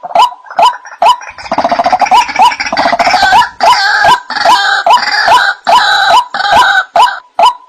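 White-breasted waterhens (ruak-ruak) calling: a short hooked note repeated about twice a second. From about a second and a half in until near the end, a harsh, rapid chattering chorus joins it.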